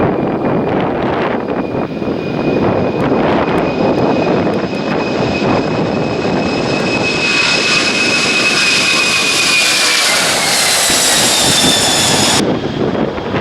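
Airbus CC-150 Polaris twin turbofan engines at takeoff power: a loud jet roar with a steady high whine whose pitch falls about ten seconds in as the aircraft goes past. Near the end the highest hiss drops away suddenly.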